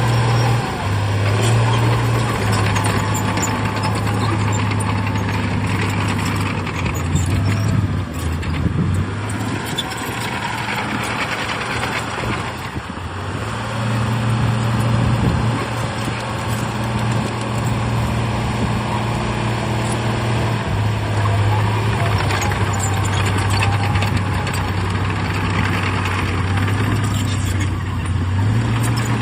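Heavy earthmoving machine's diesel engine working under changing load, its low engine note stepping up and down several times and easing off briefly about twelve seconds in.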